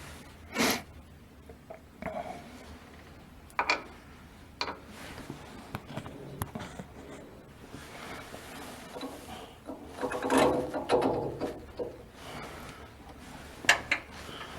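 Scattered knocks and scrapes of hand work on a boat's propeller shaft fittings, with a longer stretch of rubbing and scraping about ten seconds in.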